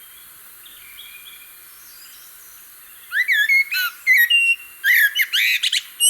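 Common blackbird singing: faint, scattered notes for about three seconds, then a loud run of varied whistled phrases that sweep up and down in pitch, broken by short pauses, with high twittery notes near the end.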